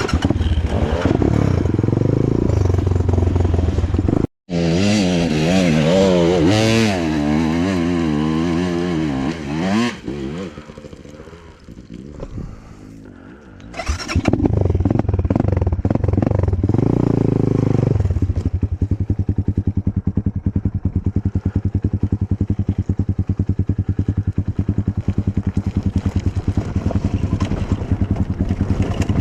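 Enduro motorcycle engine revving, its pitch swinging up and down repeatedly for several seconds, then dropping away briefly before running again with a steady, even beat.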